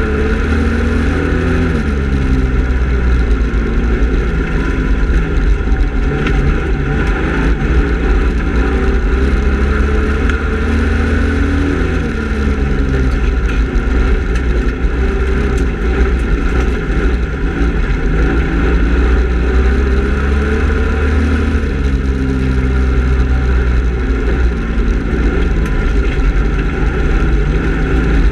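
Speedway race car engine at racing speed, revving up and easing off in a repeating cycle about every ten seconds, as on successive laps of a short oval, over a constant deep rumble.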